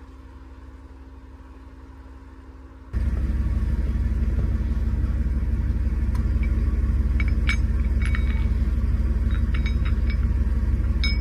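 Jeep Wrangler engine running steadily, with a sudden step up to a much louder, close rumble about three seconds in. Several light metallic clinks of recovery gear come through in the second half.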